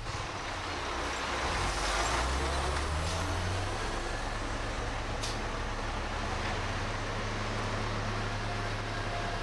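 Heavy diesel earthmoving machinery engine running steadily, rising briefly under load about two seconds in, with a sharp click a few seconds later.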